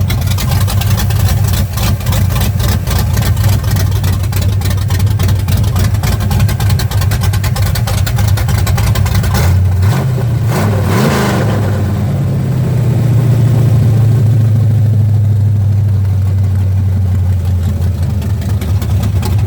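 Carbureted V8 engine running with rapid, uneven firing pulses, blipped up and back down about halfway through, then running steadier. It has low compression on four of its eight cylinders and heavy blow-by, which the owner puts down to a worn-out drag-race engine.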